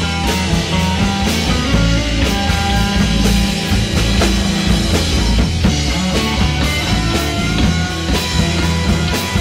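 Live rock band playing: a drum kit keeps a steady beat with cymbal hits over guitar and low sustained notes.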